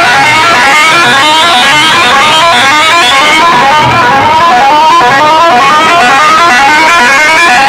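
Very loud music blasting from a big DJ sound-box rig in a sound competition: a pitched electronic tone sweeps upward over and over, a few times a second, over a low pulsing bass.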